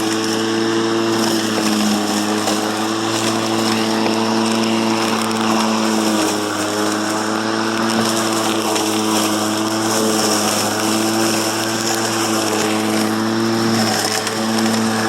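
Ego 21-inch 56-volt battery push mower running with a steady electric hum while cutting very tall grass. Its pitch sags briefly a few times under the load of the thick grass.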